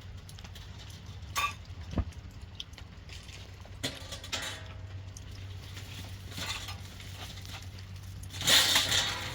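Scattered light knocks and clatter of things being handled over a steady low hum, with a louder noisy rustle near the end.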